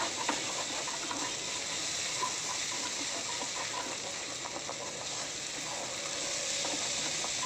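Grated potato, peanuts and onion sizzling steadily in oil in a stainless steel kadai, left to fry without stirring.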